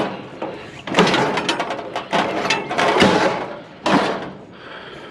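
Scrap metal being shifted and forced into place: several bursts of scraping and clanking, with rattling between them.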